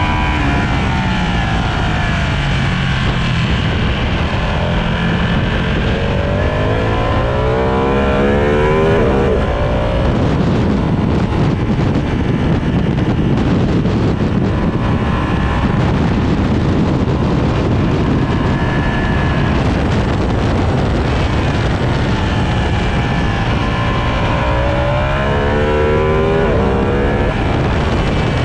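Sport motorcycle engine at full throttle, its pitch climbing steeply twice as it accelerates and dropping between, as on braking. Heavy wind rush covers the stretch at high speed in the middle.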